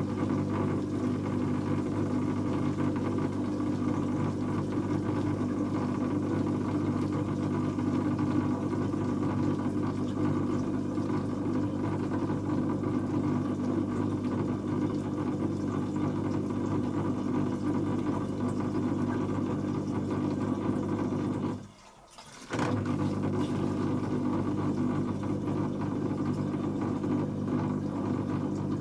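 Dyson Contrarotator CR01 washing machine running mid-wash: a steady motor hum that cuts out for under a second about three-quarters of the way through, then carries on.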